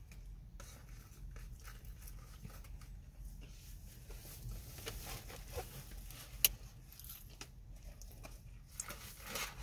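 Quiet chewing and mouth sounds of a person eating fried food, with faint scattered crackles over a low steady hum and one sharp click about six and a half seconds in.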